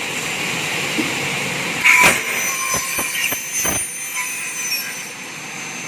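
Double-head aluminium cutting saw with its Siemens motors running steadily during a cut stroke. About two seconds in there is a short loud burst, followed by several sharp clicks.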